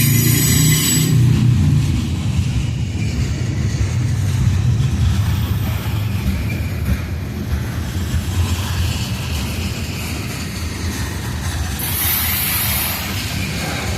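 Freight cars of a coal train rolling past, a steady rumble of steel wheels on rail. A high ringing squeal fades out in the first second, and a brief high hiss comes near the end.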